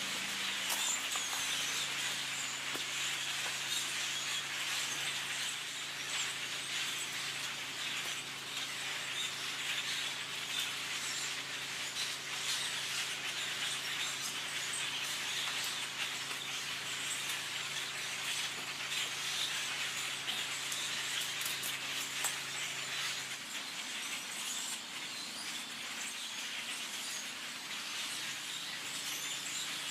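A huge flock of blackbirds calling and chattering all at once, a dense continuous cacophony. Beneath it a low steady mechanical hum runs and cuts off about two-thirds of the way through.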